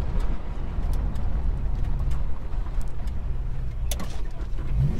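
Holden HK's engine running and road noise while driving, heard from inside the cabin with the window down, with a couple of sharp clicks. The engine note rises near the end.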